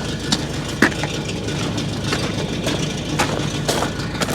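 Engine idling steadily, with scattered sharp clicks and knocks over the hum.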